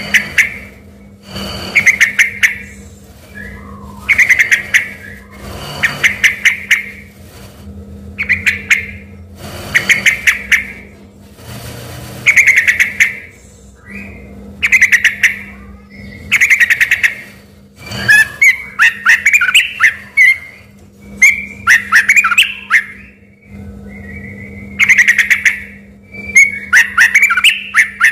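Sooty-headed bulbul (trucukan) singing in full, lively voice: short bubbling whistled phrases about every two seconds, growing busier and more varied after about eighteen seconds, over a low steady hum.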